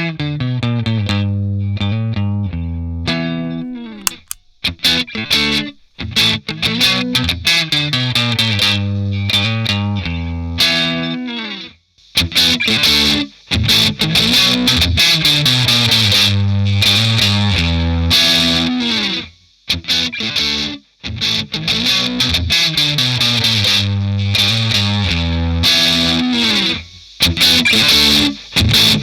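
Electric guitar played through an Electro-Harmonix Double Muff fuzz/overdrive pedal: distorted riffs and chords broken by short pauses. The tone grows brighter and denser about twelve seconds in.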